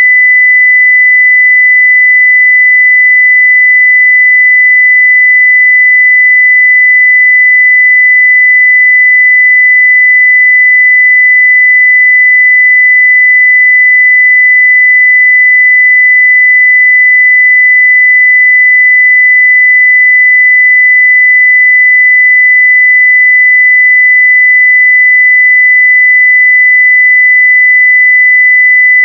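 A steady 2 kHz sine-wave test tone at full level (0 dB), unchanging in pitch and loudness.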